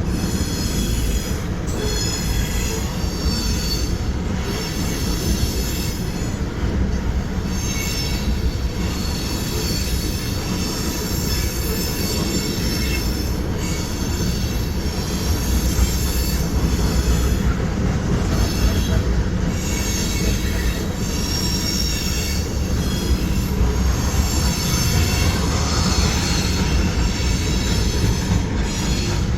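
Freight train rolling past: a steady low rumble of the cars on the rails, with high-pitched wheel squeal that keeps breaking in and fading every second or two.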